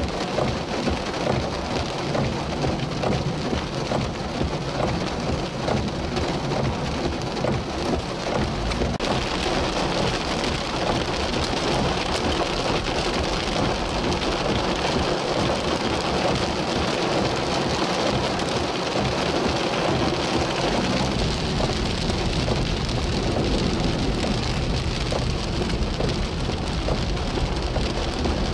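Heavy rain pouring down onto a flooded street, with car tyres splashing through the deep standing water. The noise is steady and dense, and its character shifts about nine seconds in.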